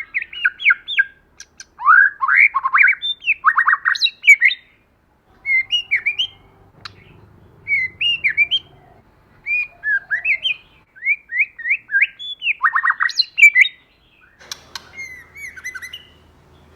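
White-rumped shama singing: loud phrases of quick, varied whistled notes and sweeps with some fast rapid-fire runs, broken by short pauses twice.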